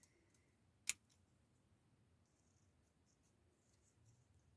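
Near silence with one sharp scissor snip about a second in, cutting the white edges off a printed paper picture, and a few faint paper ticks.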